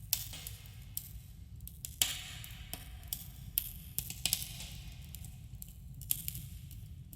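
Campfire crackling with irregular sharp pops, two of them louder about two and four seconds in, over a steady low rumble, with a slight echo of a cave.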